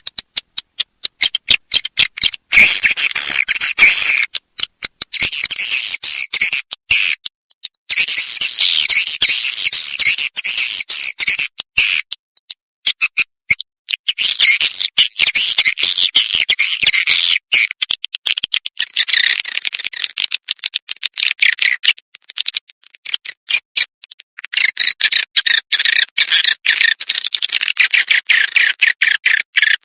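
Swiftlet calls: rapid chittering twitters and clicks, high-pitched, in bursts broken by short pauses. This is a recorded swiftlet lure sound of the kind played from swiftlet houses to draw the birds in.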